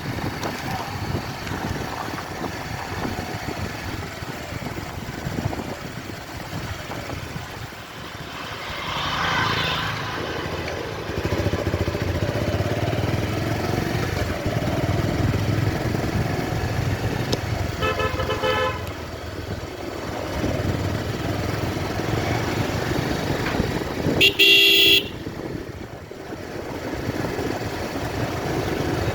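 Motor traffic with a motorcycle engine running steadily. A vehicle horn honks briefly past the middle, then a louder horn blast sounds near the end.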